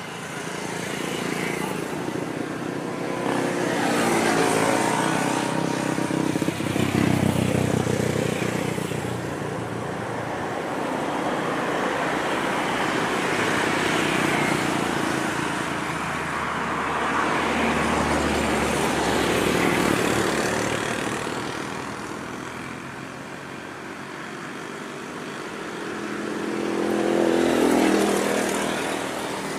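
Trains running through a railway tunnel: a continuous rumble that swells and fades several times, then a diesel locomotive hauling a passenger train grows louder as it comes out of the tunnel near the end.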